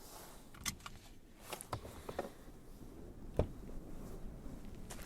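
A few light clicks and soft knocks, then one sharper knock about three and a half seconds in: sounds of someone getting out of a car, such as a seatbelt unbuckling and a car door.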